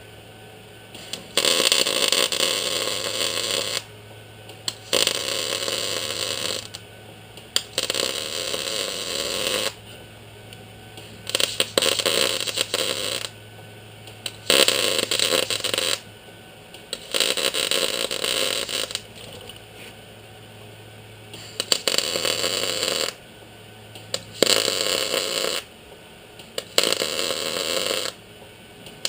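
MIG welder stitch-welding sheet-metal patch panels: about ten buzzing, crackling welds of one to two and a half seconds each, separated by short pauses, over a steady low hum.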